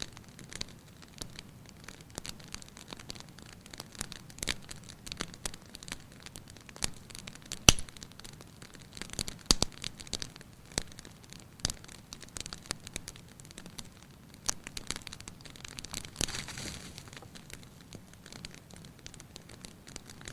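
Fireplace fire crackling, with irregular snaps and pops, one much louder pop about eight seconds in, and a short hiss a little after the middle.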